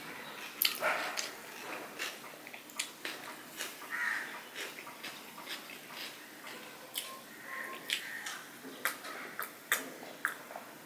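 Close-miked chewing and mouth sounds of a man eating rice and vegetables with his hand: irregular wet lip smacks and clicks, a few each second.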